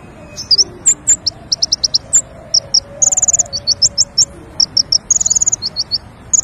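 Bird song of a king konin, played as a lure recording: a fast string of short, high whistled chirps and quick trills, with brief pauses between phrases.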